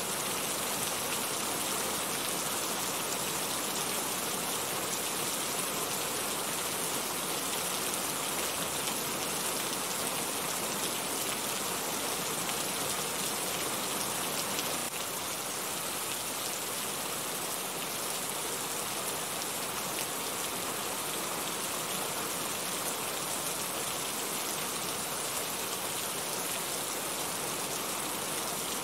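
Steady rain falling, a dense even hiss of many drops, a little quieter from about halfway through.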